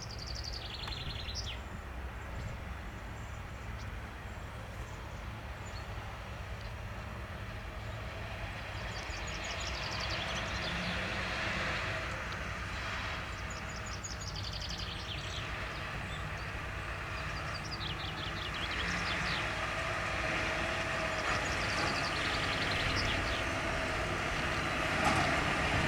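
Heavy farm machinery running steadily, a diesel rumble that grows somewhat louder in the second half, with birds chirping repeatedly over it.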